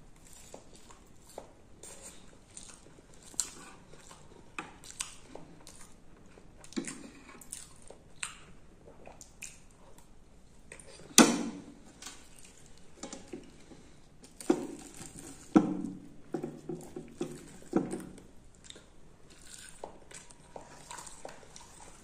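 Close-up eating sounds: a person chewing and biting puri with potato curry, with wet smacks and small crackles. There is a sharp knock about 11 seconds in, and a busy run of handling noise a few seconds later as more puri is picked from the steel plate and torn by hand.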